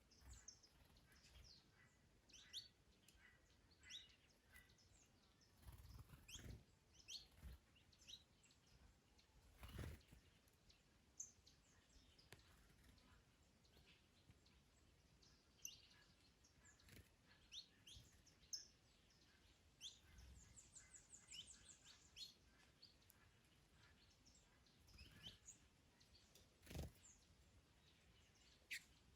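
Faint small birds chirping and tweeting, with short high chirps scattered throughout and a quick run of rapid notes about two-thirds of the way in. A few brief low rumbles break in now and then.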